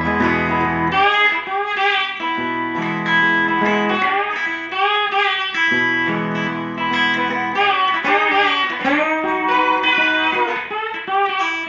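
Guitar instrumental intro: held chords under a lead line whose notes bend up and down.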